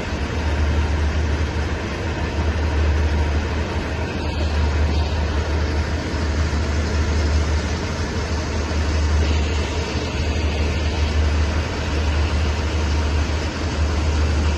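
Diesel-hauled express passenger train standing at the platform with its engines idling: a steady low rumble under a constant machinery hiss.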